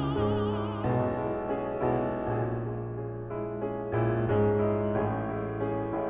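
Piano playing a classical art-song accompaniment: sustained chords struck roughly once a second. A soprano's held note with wide vibrato ends about a second in.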